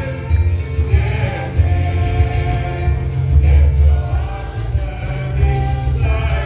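Gospel music: a choir or congregation singing over a heavy, pulsing bass line.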